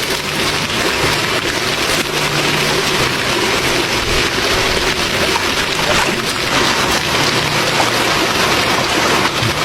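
Steady rush and patter of falling water.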